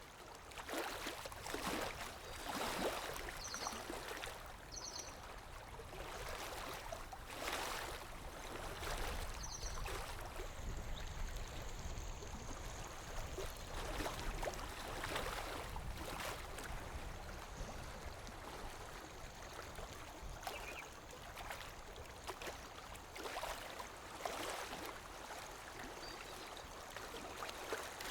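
Lake water lapping against the shore: a steady wash broken by small, irregular splashes every few seconds.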